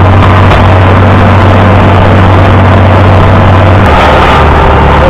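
International Harvester 560 tractor's engine running steadily and loud; its engine note drops slightly about four seconds in.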